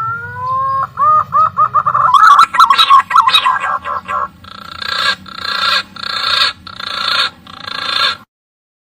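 Green pigeon (punai) calling: a few rising whistled notes, then a fast run of short whistles, then five hoarser notes about two-thirds of a second apart. It is the call used as a lure to draw the birds in.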